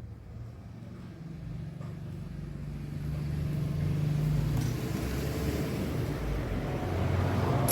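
A motor vehicle engine running, growing louder over the first few seconds, with a sharp click at the very end.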